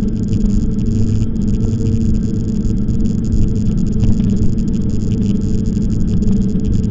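Steady low rumble of a bike ride in motion: wind buffeting the microphone, mixed with tyre noise on the path.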